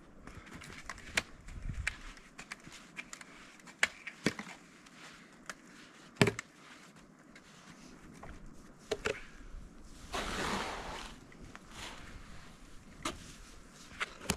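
Snow being cleared from a roof by hand: scattered sharp knocks and scrapes, footsteps crunching in deep snow, and a swish of snow about ten seconds in.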